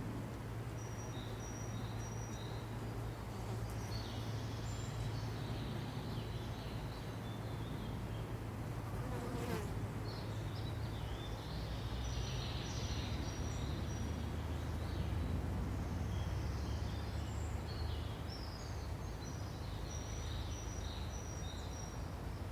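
Forest ambience: a steady low drone under short, high bird chirps that come and go in clusters.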